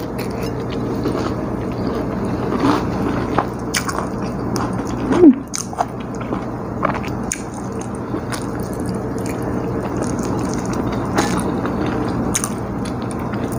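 A person chewing and biting a mouthful of pecel close to the microphone, with many small wet mouth clicks and smacks over a steady low background hum. About five seconds in there is a brief, louder mouth sound.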